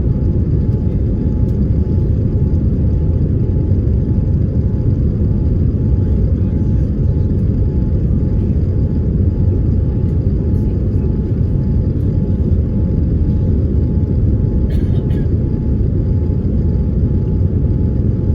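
Airliner cabin noise: the steady low rumble of the jet engines and airflow as heard from a passenger seat, with a faint steady tone running through it.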